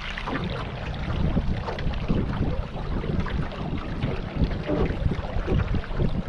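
Wind buffeting the microphone on a boat out on the water, with water splashing; a gusty, uneven rumble and no steady engine note.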